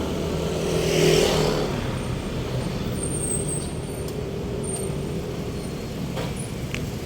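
Road traffic with vehicle engines running steadily. About a second in, a louder rush of noise swells and fades over the next second.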